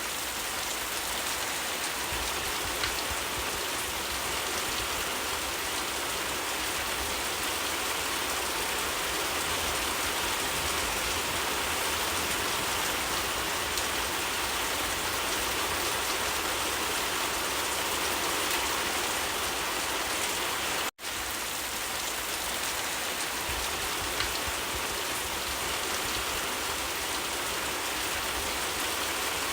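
Steady rain falling: an even, unbroken hiss of rain, which cuts out for an instant about two-thirds of the way through.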